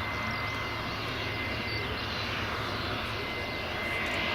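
Fokker 100 jet airliner's Rolls-Royce Tay turbofans heard during its landing: a steady rushing noise with a thin high whine, growing louder near the end.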